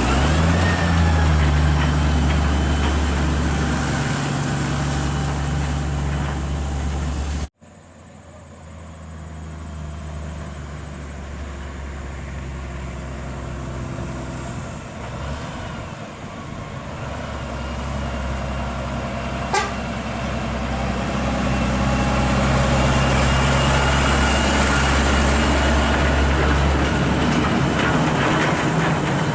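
Heavy truck diesel engines running. The sound cuts off suddenly about seven seconds in, then another truck is heard approaching, growing steadily louder until it is running loud near the end, with a single sharp click partway through.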